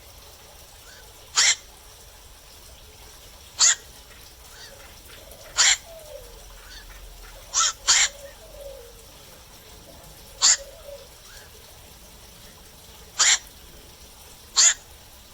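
Black-crowned night herons giving short, harsh single calls at night. There are about eight in all, spaced irregularly a second or three apart, with two in quick succession about eight seconds in, over a faint steady hiss.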